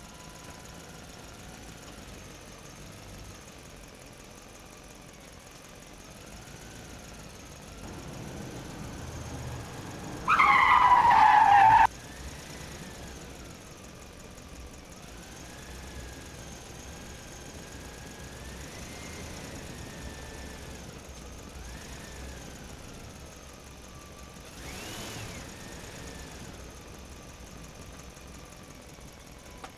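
Vehicle engine running, its pitch rising and falling now and then. About ten seconds in, a loud high squeal lasts about a second and a half.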